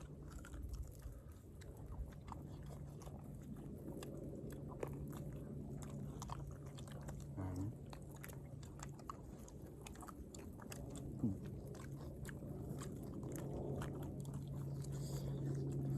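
Someone chewing and biting into grilled sekuwa meat, with many small crunches and wet clicks, over a steady low hum.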